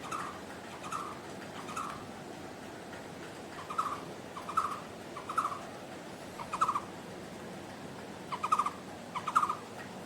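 Young blue-throated barbet calling: about nine short, trilled notes, each under a second apart, with a longer pause after the first few.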